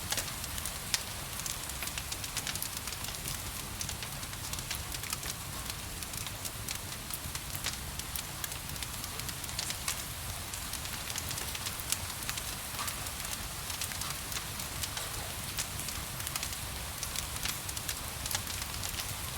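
Wood fire crackling, with many small irregular pops and snaps, a few sharper than the rest, over a steady hiss of gentle rain and a low rumble.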